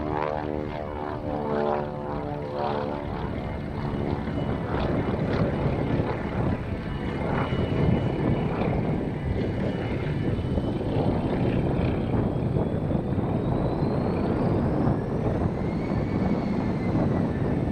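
Propeller airplane droning overhead, steady throughout, with a faint whine that rises and then falls in pitch in the second half.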